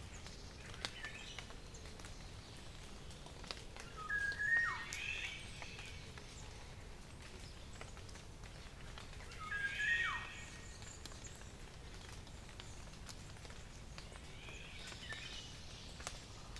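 Wild birdsong in a forest: a song phrase repeated about every five to six seconds, each with a quick falling whistle, while fainter birds call in the background over a steady low hiss.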